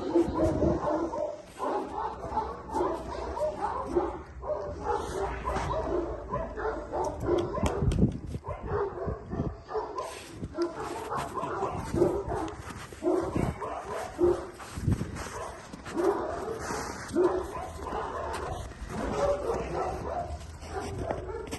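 Central Asian Shepherd Dog (Alabai) puppy yipping and whimpering, short calls repeated in quick succession.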